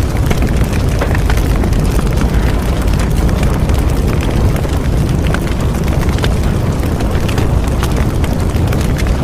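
Bonfire burning: a steady low rumble of flames with many small, scattered crackles and pops from the burning wood.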